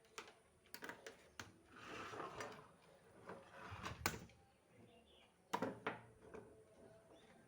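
Scattered sharp clicks and knocks of hard objects being handled, with a scraping rub about two seconds in and the loudest knocks about four and five and a half seconds in.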